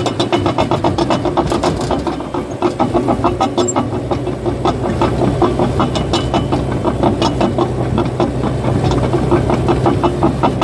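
Cat bulldozer's diesel engine running while its steel tracks clank and squeak in a fast, even rhythm of several clicks a second as the machine moves; the track clatter stops at the very end, leaving the engine running.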